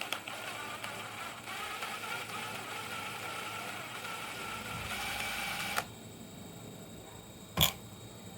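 A small electric motor whirring steadily with a fixed whine, cutting off suddenly about six seconds in. A single sharp click or knock comes near the end.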